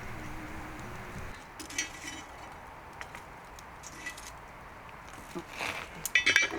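Scattered light clicks and knocks, then a brief clatter of metal cooking utensils near the end, over a faint steady hiss at first.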